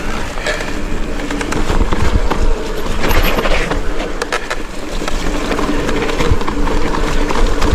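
Mountain bike riding down a rough, wet trail: tyres rolling over mud and roots and the bike rattling, with a constant run of knocks and clicks.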